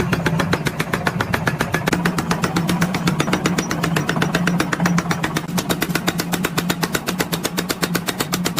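A machine running with a rapid, even clatter of about ten ticks a second over a steady low hum.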